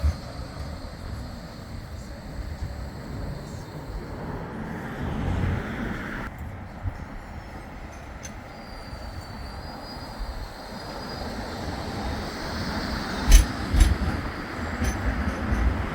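Bombardier Flexity 2 tram running on its rails with a steady low rumble and a faint high whine in the middle. A few sharp knocks come near the end.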